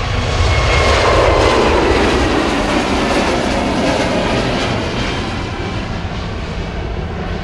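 Jet airliner passing close by on the runway: its engine noise swells to a peak about a second in, then slowly fades, with a faint steady whine above it.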